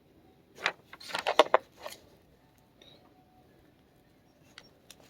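Handling noise: a quick cluster of sharp clicks and rustles about a second in, then a few faint ticks over low room tone.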